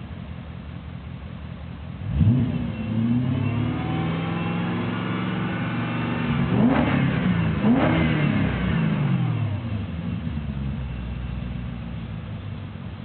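BMW E34 540i's V8 through a custom exhaust, idling and then revved: a sharp blip about two seconds in, a wavering held rev, then two quick blips close together before it drops back to idle.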